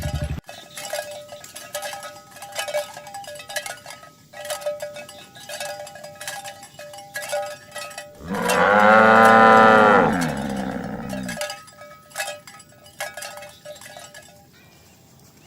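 Bells clinking irregularly among walking cattle. About eight seconds in, one cow gives a single long moo, rising and then falling in pitch, which is the loudest sound. The clinking fades out near the end.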